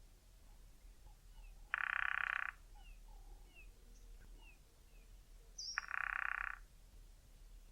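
Male cardinal woodpecker drumming on a dry tree trunk: two short, rapid drum rolls, each under a second long, about four seconds apart. Faint thin chirps of another bird come between the rolls.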